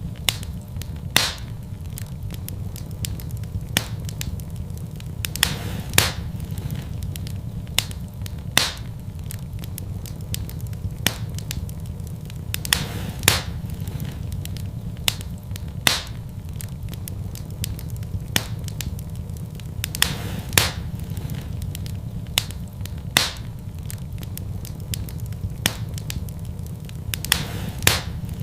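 Wood fire burning in a fireplace, crackling with sharp irregular pops every second or two over a steady low rumble.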